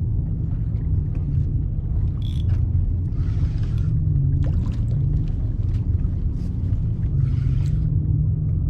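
Steady low rumble of wind and water on the microphone of a kayak at sea, with a soft hissing swish of water against the hull about every four seconds.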